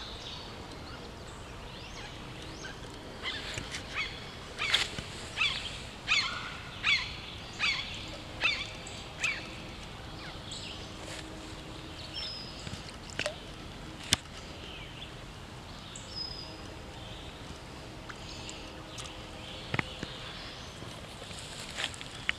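Outdoor streamside ambience. A bird gives a series of about ten sharp, downward-sliding calls, roughly one every three-quarters of a second, then a few fainter calls. A couple of sharp clicks come later.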